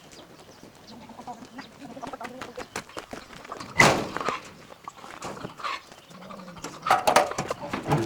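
Chickens squawking, with a loud harsh call about four seconds in and more calls around seven seconds, among scattered clicks and knocks from handling.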